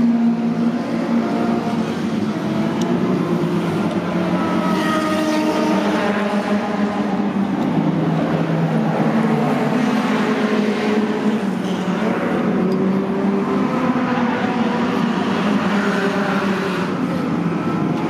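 Honda S800's 791 cc four-cylinder engine with quad carburettors, running at idle from the race car's exhaust; the pitch wavers slightly, with no big revs.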